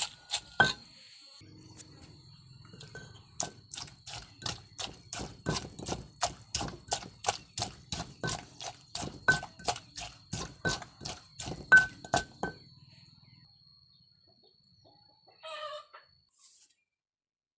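Knife chopping on a cutting board in a quick, even rhythm of about three strokes a second, some strokes giving a short ring, stopping about twelve seconds in.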